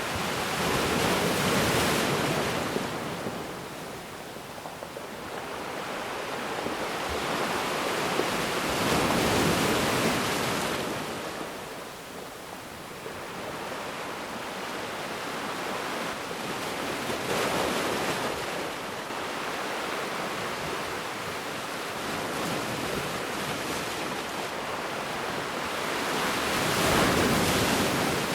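Ocean waves breaking on a beach: the surf swells up and fades away four times, a wave about every eight seconds, with a steady wash between.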